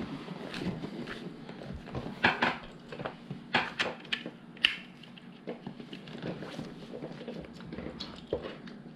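Plastic LEGO pieces clattering and clicking as they are handled and sorted, in an irregular scatter of sharp clicks that is busiest a couple of seconds in.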